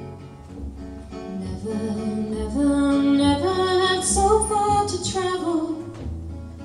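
Live folk song with acoustic guitar accompaniment. A woman's voice comes in singing about a second and a half in, louder in the middle of the stretch.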